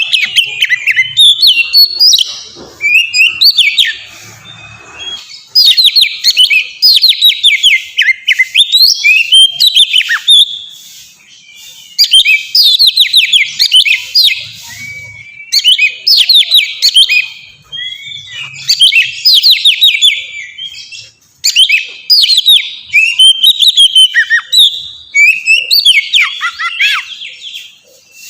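Oriental magpie-robin (kacer) singing loudly in long, varied phrases of quick whistles, sweeps and trills, with short pauses between phrases.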